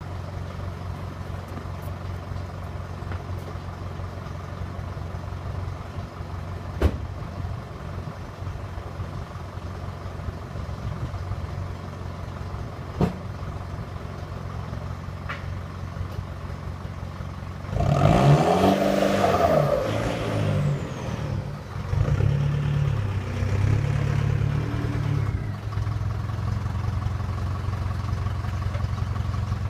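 Exhaust of a Mitsubishi Triton's 2.5-litre four-cylinder diesel with the muffler deleted. It idles steadily, then is revved up and let fall back about eighteen seconds in, with a second rev a few seconds later, before settling to a steady run.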